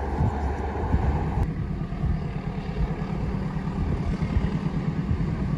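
Long train passing: a steady low rumble of the diesel locomotive and rolling wagons, its tone shifting about a second and a half in.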